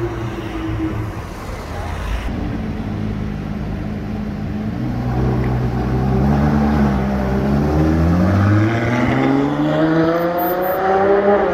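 Supercar engine and exhaust pulling away under load: a steady low drone for several seconds, then the pitch climbs steadily through the last four seconds as the car accelerates, dropping sharply at the very end as it shifts up a gear.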